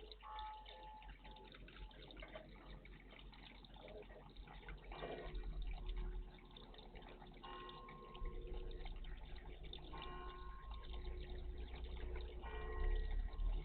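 Water dripping and splashing in a garden bird bath, over a low rumble.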